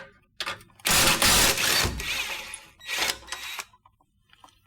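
Ratchet wrench clicking as the 13 mm nut on an exhaust pipe clamp is backed off. There are a few single clicks, then a loud spell of rapid clicking about a second in and a shorter one about three seconds in. The nut turns easily, coming loose without a fight.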